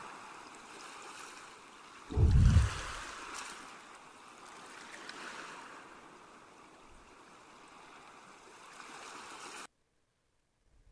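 Sea water sound effect: a steady wash of water, with a louder low surge about two seconds in. It cuts off abruptly near the end.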